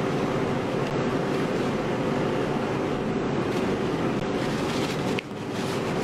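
Steady background hum and hiss with a faint steady tone, dipping briefly about five seconds in.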